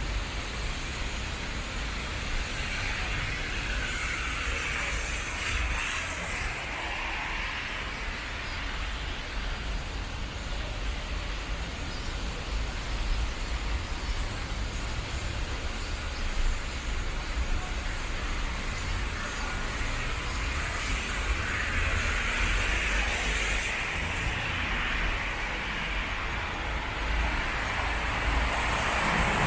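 Vehicles passing on a rain-wet road, their tyres hissing, over a steady low traffic rumble; two passes swell up and fade, one a few seconds in and another past the middle.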